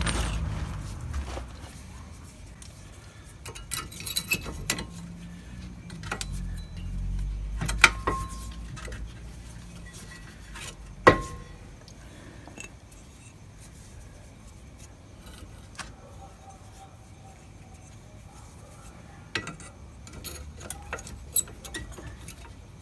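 Metal tools and car parts being handled: scattered clinks and taps, with two sharper ringing metal clinks about eight and eleven seconds in.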